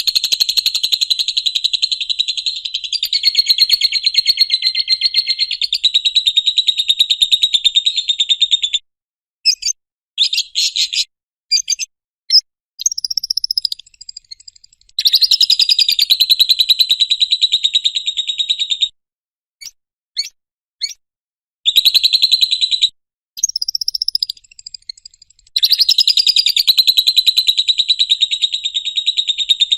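Lovebird doing its 'ngekek' song: long, loud stretches of fast, unbroken chattering trill lasting several seconds each. Short chirps and brief pauses break up the trills.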